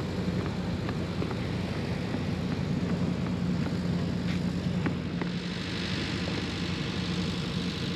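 A boat's engine running steadily with a low, even hum, and a hiss that grows louder about five seconds in.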